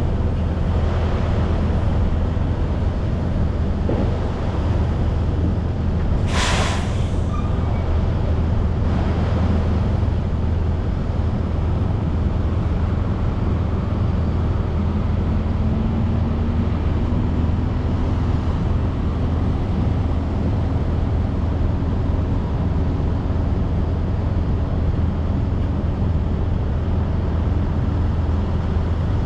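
Semi-truck running down the road: a steady low diesel engine drone with road noise. A short burst of hissing air comes about six seconds in, and a faint engine tone slowly rises in the second half.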